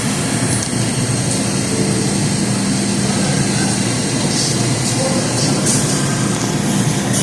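R142 subway train running on the tracks: a steady rumble with a low hum, and patches of high hiss from the wheels about four and five and a half seconds in.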